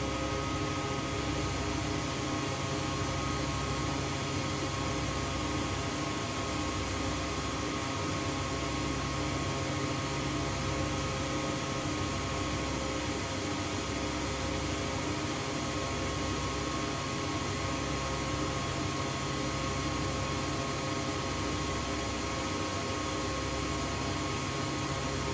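Front-loading washing machine running its spin cycle at high speed, a steady motor whine over a low hum, with the pitch starting to sink near the end as the drum begins to slow.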